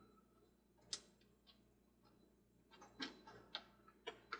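Light, irregular clicks and taps from plastic toy parts and screws being handled during reassembly, with a quick cluster of clicks about three seconds in.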